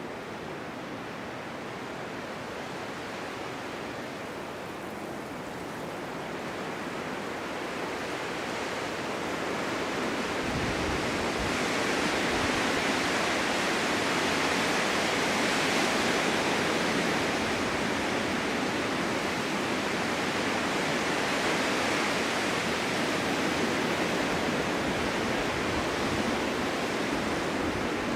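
Snowstorm wind blowing in a steady rush that builds into a stronger gust about a third of the way in and stays strong.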